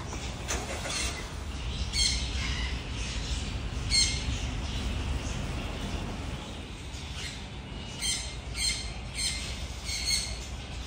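Birds calling, short chirps and squawks every second or two, coming closer together near the end, over a low steady rumble.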